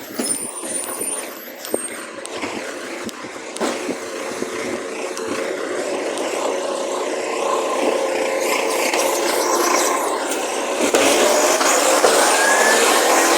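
Recycling truck running, its engine growing steadily louder, with a rising whine over the last few seconds and a few clicks near the start.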